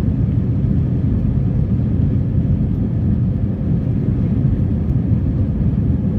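Airbus A320's jet engines and airflow heard from inside the cabin: a loud, steady low rumble that holds even throughout.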